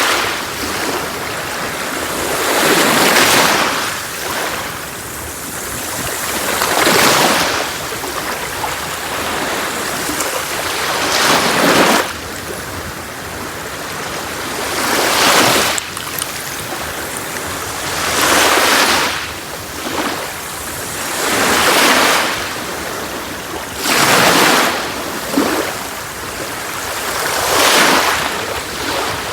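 Sea waves breaking on a beach, one after another about every three to four seconds, each surge swelling and falling away over a steady hiss of surf.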